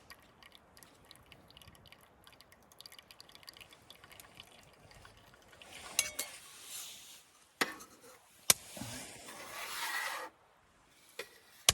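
Liquid, likely coffee or hot water, being poured into a cup for about two seconds near the end, after a few sharp clinks of a cup or utensils.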